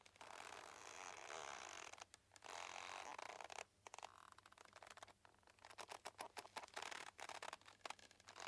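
Boat's mooring rope creaking faintly under strain: long drawn-out creaks in the first few seconds, then runs of rapid crackling ticks.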